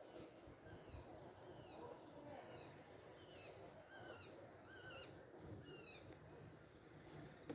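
Faint birdsong: small birds repeating short chirped and warbled phrases.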